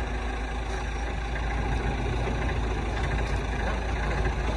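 Forklift engine running steadily at idle, a low, even rumble, with a few faint ticks of metal over it.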